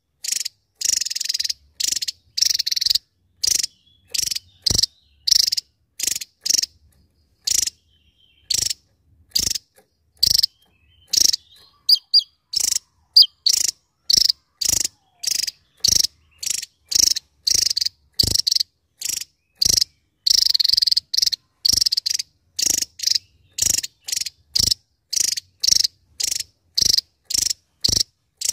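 Javan tesia (Tesia superciliaris) singing its rapid 'nembak' (shooting) song: short, high-pitched trilled bursts repeated about one to two times a second, with a couple of brief pauses.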